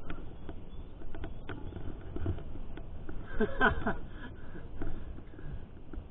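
Mountain bike rattling over a rough trail, picked up by a bike- or body-mounted GoPro: a steady low rumble under rapid clicks and knocks from the bike's parts and tyres. About three and a half seconds in comes a brief pitched sound, lasting about half a second, that bends downward.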